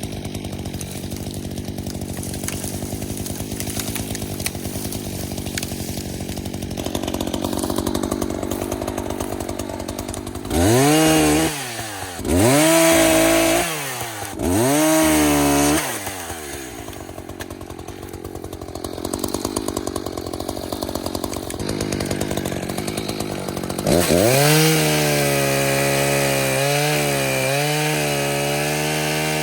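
Echo CS-590 Timberwolf two-stroke chainsaw ticking over at low revs, then revved three times in short blips of about a second and a half each. It drops back to low revs, and about three-quarters of the way through it goes to full throttle and holds there, its pitch dipping slightly.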